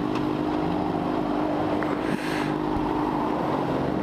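Motorcycle engine running at steady revs during a ride, with wind noise on the microphone. A brief rush of noise comes about two seconds in.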